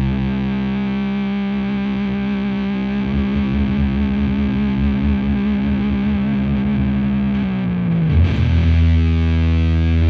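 Electric guitar through a Devi Ever Big Distortion Sound Machine fuzz pedal and valve amp, heavily fuzzed held notes ringing out. About eight seconds in the pitch slides down and settles on a lower sustained note.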